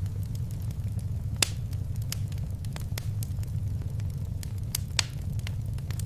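Wood fire crackling in a fireplace: scattered sharp pops over a steady low rumble, with two louder pops about a second and a half in and again about five seconds in.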